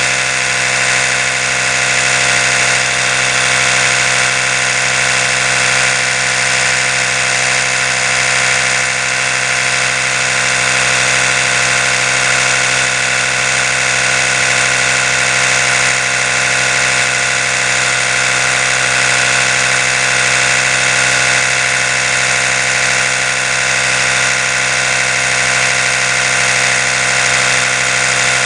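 Oral-B electric toothbrush motor running steadily: a continuous buzzing hum with a strong high hiss and no change in speed.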